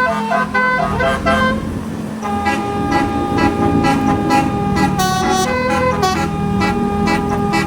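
Bus basuri musical air horn playing a melody, quick short notes for the first second and a half, then longer held notes, over the low drone of the bus engine.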